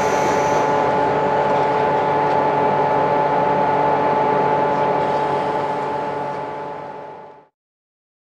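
Series 711 electric train heard from inside the carriage with the window open: a steady hum with several fixed tones over noise. It fades and cuts to silence about seven and a half seconds in.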